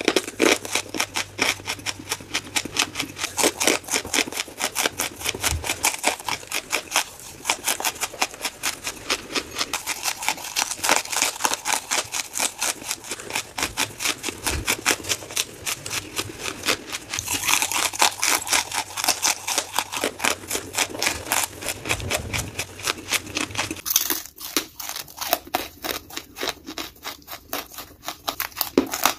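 Charcoal being chewed close to the microphone: rapid, dry crunching with many crackles a second. Near the end the crunches become sparser and duller.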